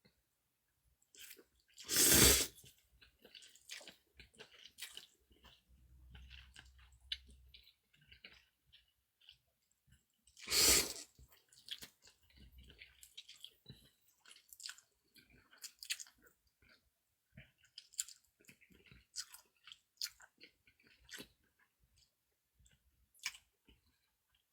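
Close-up chewing and mouth sounds of a person eating cold noodles (naengmyeon) and dumplings: many small wet clicks and crunches, with two louder brief bursts of noise, one about two seconds in and one near the middle.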